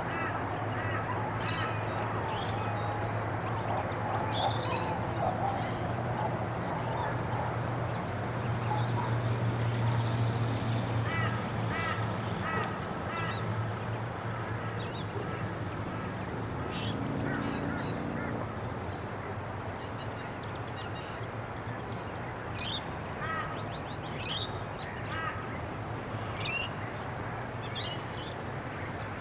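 Birds calling from the shore: scattered short sharp calls and runs of quickly repeated calls, over a steady low background hum.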